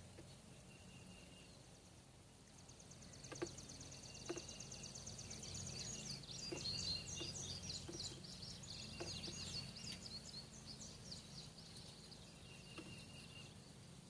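Faint outdoor ambience: birds chirping and trilling in quick runs for several seconds through the middle, with a few light taps and a low steady background rumble.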